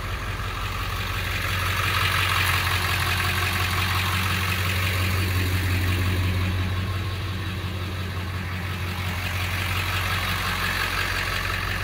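Ford 7.3L Power Stroke turbo diesel V8 idling steadily.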